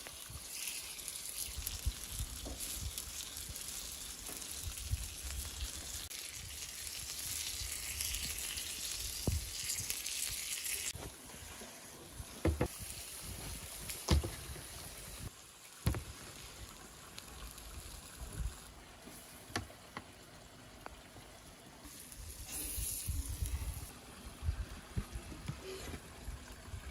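Beef liver and heart kebab meat sizzling as it cooks, a steady hiss that cuts off suddenly about eleven seconds in. A few sharp clicks and knocks follow.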